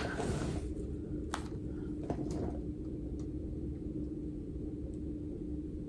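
Steady low hum of a room with one held tone, with a few light clicks and a brief rustle in the first two and a half seconds.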